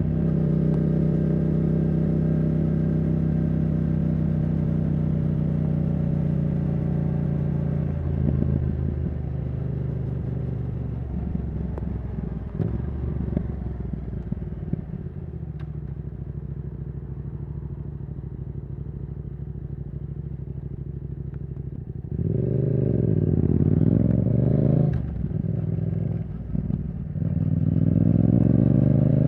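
Yamaha R7's CP2 parallel-twin engine through a Yoshimura R77 exhaust: held steady at first, then throttled back to a lower, quieter note for a long stretch. About twenty-two seconds in it pulls hard again, with rising engine pitch broken by brief dips between gears.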